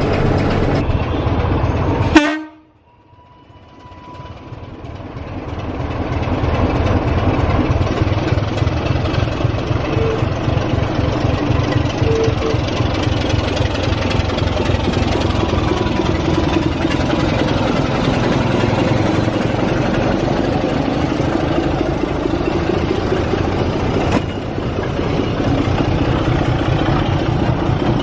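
A train running along the line: a steady rumble with faint wheel clatter. About two seconds in there is a sharp click, after which the sound drops away and fades back up over a few seconds.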